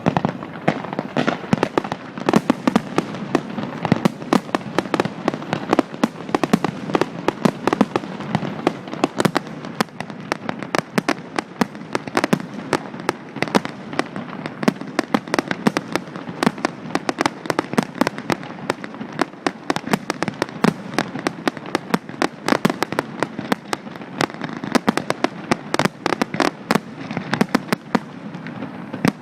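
Fireworks display: a dense, continuous barrage of bangs and crackles, several a second, starting abruptly.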